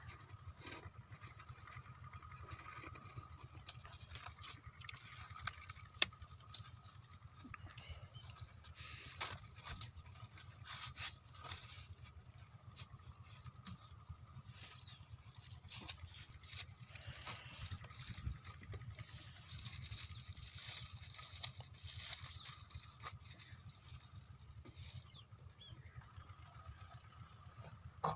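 Faint, steady low drone of a small engine running, with scattered light clicks and patter over it.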